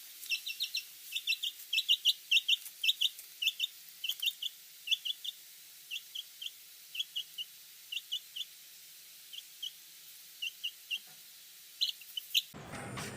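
Bird chirping: short high-pitched peeps in quick clusters of two to four, frequent at first and sparser later on.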